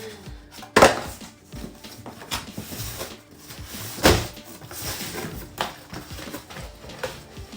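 Plastic vacuum cleaner parts and cardboard packaging handled during unboxing: a series of knocks, clicks and rustles, with the loudest knocks about a second in and about four seconds in.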